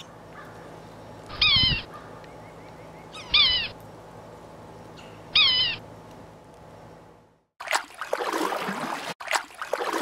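Yellow-bellied sapsucker calling: three short mewing calls about two seconds apart, each dropping in pitch. Near the end, two long swishes of a canoe paddle pulled through water.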